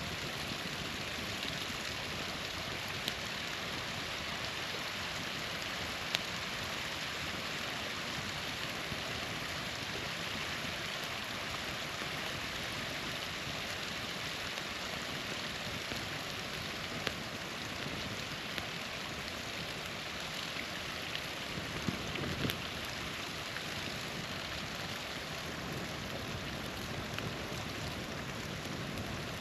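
Small waterfall's steady rush of falling water, with a few sharp pops of campfire wood crackling.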